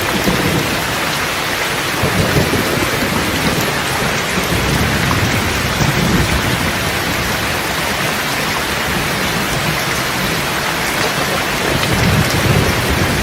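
Steady rain falling, with low rolling thunder rumbling underneath that swells and fades and builds again near the end.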